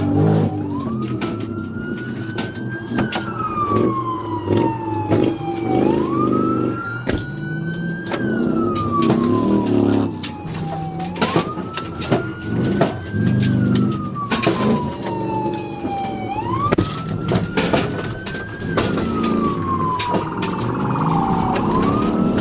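Police patrol car siren on a slow wail, its pitch rising and falling about every five seconds, four full cycles, over the car's engine and road noise during a high-speed pursuit.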